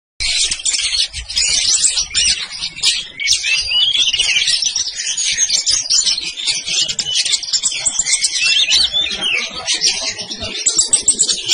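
Sunbirds (kolibri ninja and kolibri wulung) singing a dense, rapid, high twittering song with quick up-and-down glides that starts abruptly just after the beginning and goes on without a pause.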